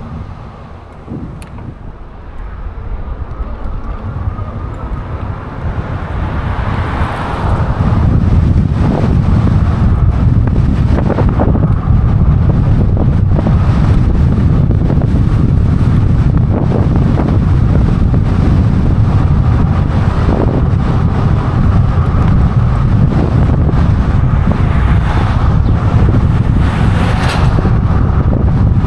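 Wind buffeting the microphone of a riding e-bike, building over the first several seconds as it picks up speed, then staying loud and steady.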